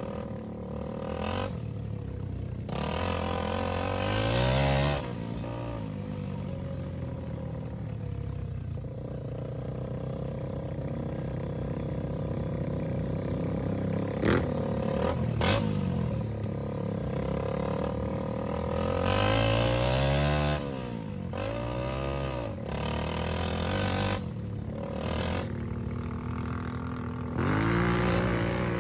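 Go-kart engine running as the kart drives a lap, its pitch rising and falling as it repeatedly speeds up and backs off, with a couple of sharp knocks about halfway through.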